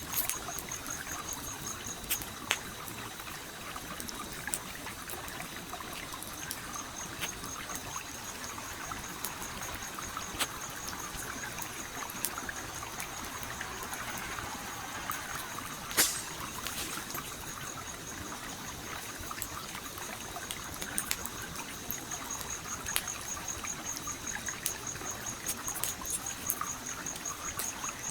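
Campfire crackling with scattered pops over a steadily flowing stream; one sharp pop about halfway through is the loudest sound. A faint, high, rapidly pulsing trill runs through most of it.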